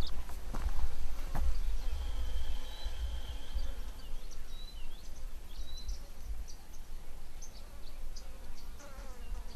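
A few footsteps on the dirt track in the first second and a half. Then the footsteps stop, leaving small birds' thin high chirps and whistles, including one held whistle lasting about two seconds, over a low rumble.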